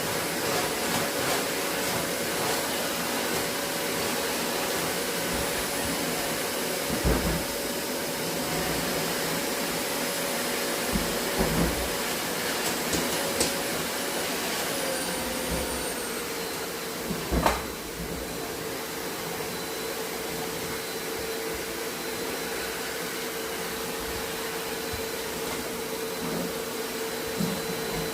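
Vacuum cleaner running steadily, its motor hum dropping slightly in pitch about halfway through, with a few knocks as the nozzle bumps about.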